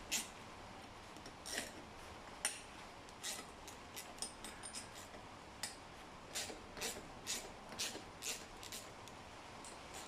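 Hand tools working on the scooter's cylinder head bolts: a series of short, light metallic clicks and clinks at irregular intervals, some in quick clusters.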